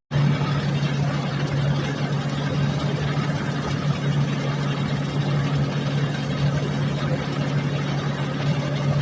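Steady drone of a running motor or engine, with a strong low hum and a broad hiss over it, unchanging throughout.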